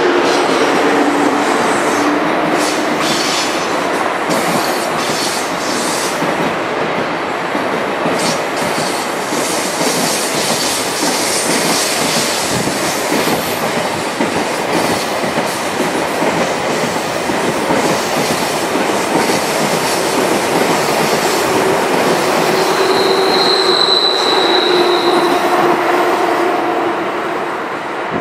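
ICE high-speed train rolling past on curved track, its wheels clattering over rail joints and points. A brief high wheel squeal comes about three-quarters of the way through.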